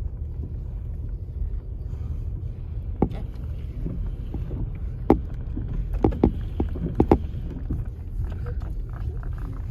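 Storm wind buffeting the microphone as a steady low rumble, with several sharp knocks: one about three seconds in, one about five seconds in, and a quick cluster around six to seven seconds.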